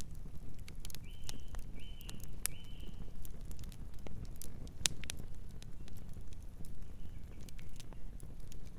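Wood fire crackling, with irregular sharp pops over a low rumble. A bird chirps three times in quick succession about a second in, and gives fainter chirps near the end.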